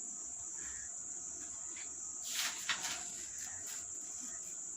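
Steady high-pitched trill of crickets. About halfway through come a couple of brief rustling scrapes, an ostrich feather being drawn over a scissor blade to curl it.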